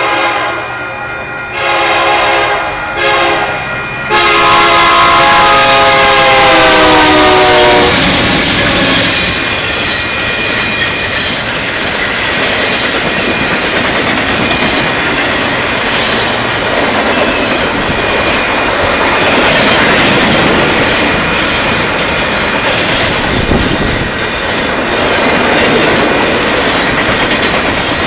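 Union Pacific freight locomotive's air horn sounding a few short blasts, then one long loud blast whose pitch drops as the locomotive passes. It is followed by the steady rumble and wheel clatter of the train's freight cars rolling past close by.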